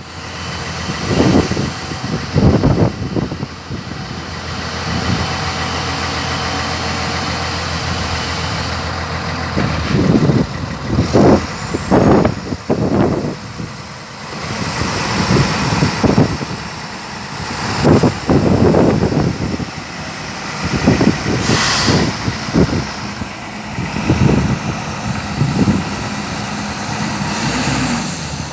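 Truck engine idling, with a series of short thumps and clunks over it.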